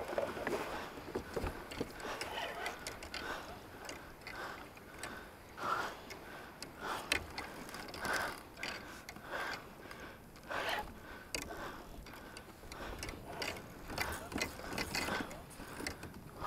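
Fishing reel clicking and ratcheting in short irregular runs while a kingfish is being fought from a kayak.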